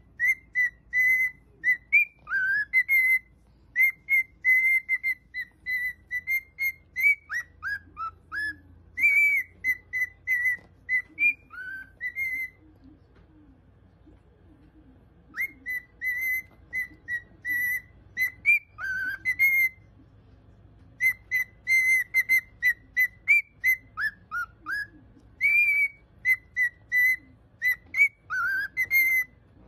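Cockatiel whistling a tune: runs of short, clear notes at one pitch broken by notes that slide downward, with a pause of about three seconds partway through.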